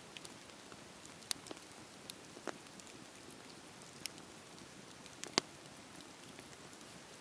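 Wood fire crackling in a fireplace: a soft steady hiss with scattered sharp pops and snaps, the loudest about five seconds in.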